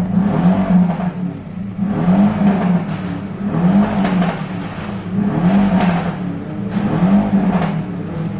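A very loud car engine revved over and over, the pitch rising and falling about every second and a half, heard through the closed windows of another car.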